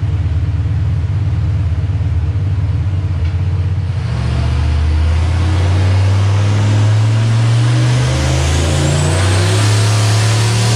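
Turbocharged stock-block Ford 302 V8 in a Fox-body Mustang running on a chassis dyno for a pull. It is choppy and uneven for the first few seconds, then settles into a steadier drone that slowly climbs in pitch. A faint high whistle rises about nine seconds in.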